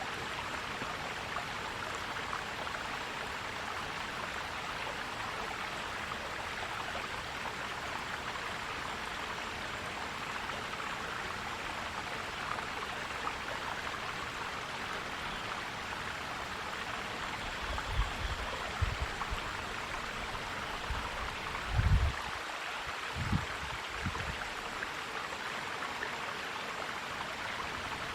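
Stream water flowing and gurgling steadily. Late on, a few short low bumps sound under it, the loudest about three-quarters of the way through.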